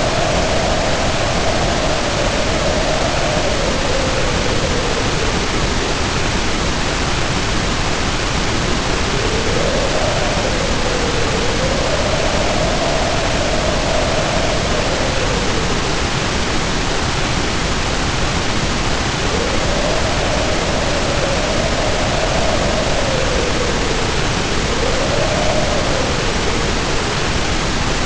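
Heavy rain pouring in a steady, dense hiss. Over it, wind howls in a faint wavering tone that rises and falls in slow swells every few seconds.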